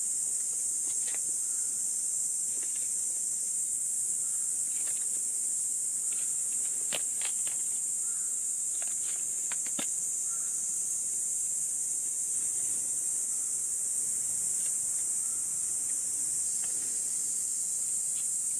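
A steady, high-pitched chorus of insects, with scattered light clicks and knocks, mostly about halfway through.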